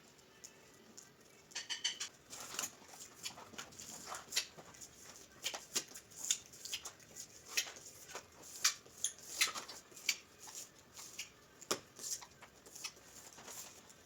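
Irregular sharp clicks and short scrapes of hand tools working on tile, starting about a second and a half in.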